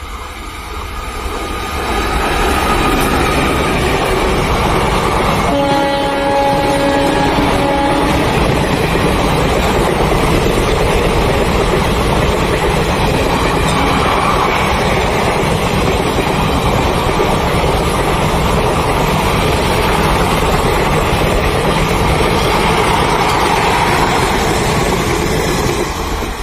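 Electric-locomotive-hauled Indian Railways express train approaching and passing at speed. About five seconds in, the locomotive's horn sounds once for roughly two and a half seconds. Then comes the steady rumble and rattle of the passenger coaches going by, falling away at the very end.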